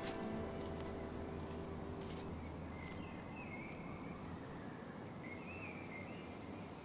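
Small birds chirping now and then over a faint outdoor hush. The last held notes of music fade away in the first two seconds.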